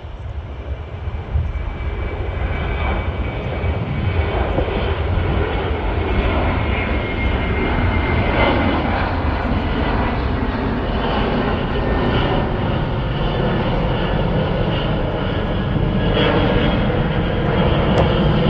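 Airliner jet engines at takeoff power, a loud steady rush that builds over the first few seconds and then holds, with a thin high whine running through it.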